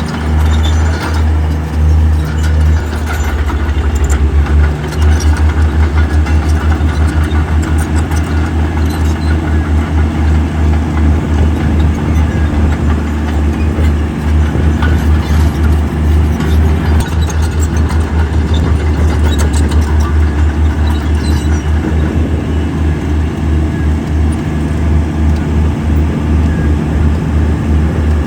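Heavy diesel earthmoving machinery running hard, a deep engine rumble with a fast, even pulse, overlaid by scattered metallic clanks and clicks.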